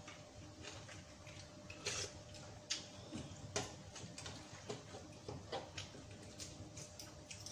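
Spoon and fork clinking and scraping against a ceramic soup bowl while eating, a scattering of light irregular clicks, with a few sharper ones about two to four seconds in, over a faint steady hum.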